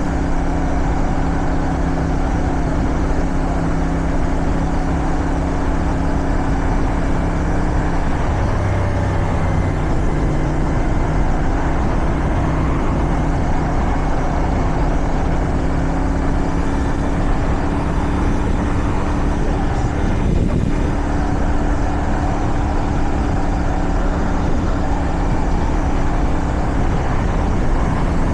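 Motorcycle engine running under way at a steady cruising note, with heavy wind noise on the microphone. About eight seconds in the engine note drops and changes, as in a gear change or easing off the throttle, then settles back to a steady note a few seconds later.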